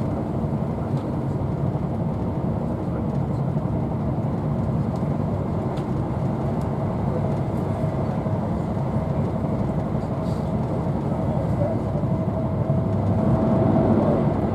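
Inside a passenger coach of a Class 43 'Intercity 125' HST running at speed: steady rumble of wheels on rail and the coach's running noise, with a few faint clicks. It grows louder near the end.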